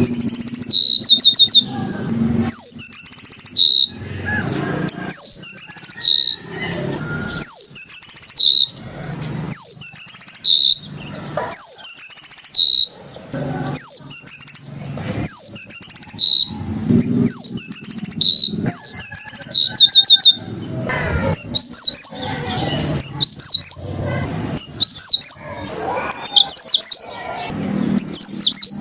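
Yellow-fronted canary (Mozambique singer) singing in short, rapid phrases of high trills and sweeping whistles, about one phrase a second, over a steady thin high tone.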